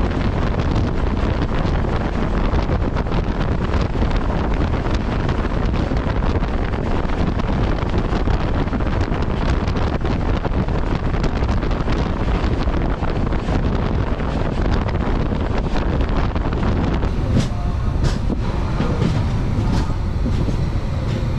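Passenger express train running, heard from its coach doorway: a steady heavy rumble and rush of wheels on rail. Near the end, a few sharp clicks of the wheels over rail joints.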